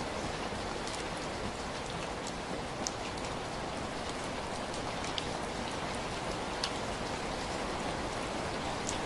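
Heavy rain falling steadily, a dense even hiss with scattered sharp drop taps on a surface.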